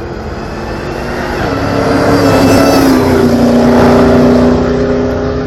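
A car engine approaching and passing by, growing louder to a peak midway, its pitch dropping as it goes past, then running on at a steady lower pitch.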